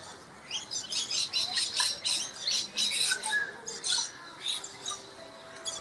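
Small birds giving a quick run of short, high-pitched chirps and squawks, about three or four a second, that thins out to a brief lull near the end.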